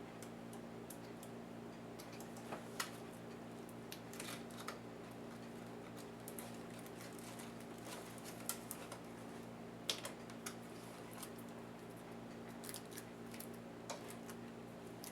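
Irregular small clicks and taps of laptop parts and hand tools being handled while a laptop is taken apart, over a steady low hum; the sharpest clicks come a little under 3 seconds in and around 8 and 10 seconds.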